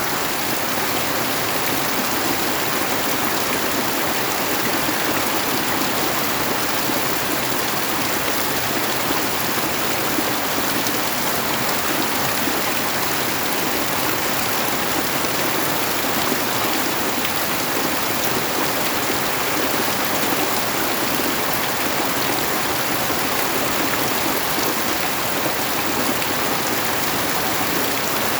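Steady rain falling, an even hiss that holds at one level without let-up.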